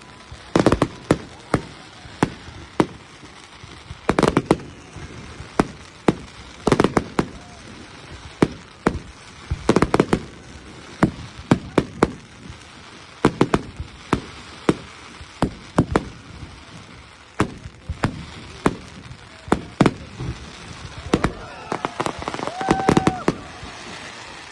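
Fireworks going off: a long run of sharp bangs and cracks at irregular intervals, some in quick clusters, over a steady hiss.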